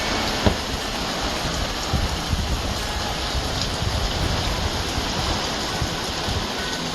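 Steady rain falling on the ground, with a few louder drips.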